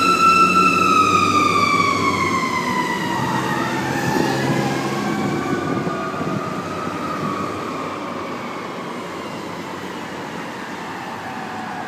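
A fire truck's Federal mechanical siren winding down in one long falling tone, with a second siren tone sweeping up and crossing it about three to five seconds in. The sound fades as the truck moves away.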